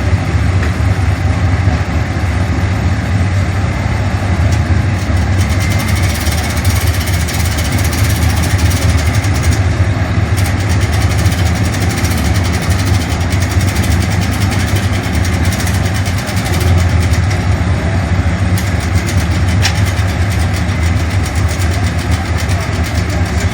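An engine idling steadily with a deep low rumble, held for the whole stretch.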